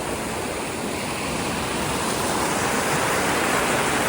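Creek water rushing steadily over rocks with a strong flow, growing slightly louder about halfway through.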